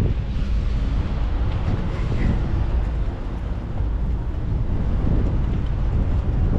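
Steady low rumble of wind buffeting the microphone, mixed with vehicle and road noise.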